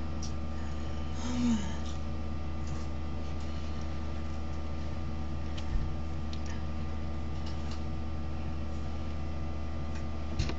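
Steady electrical hum with room noise, broken by a brief low falling sound about a second in and two faint knocks, one midway and one near the end.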